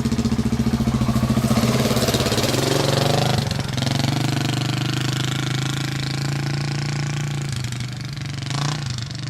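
Honda XR600R's big single-cylinder four-stroke engine running under throttle with a loud, pulsing note, then easing to a steadier, quieter run about three and a half seconds in.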